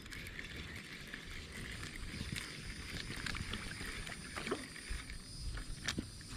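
Knocks and ticks of handling in a kayak over an uneven low rumble, with a few sharper knocks in the second half.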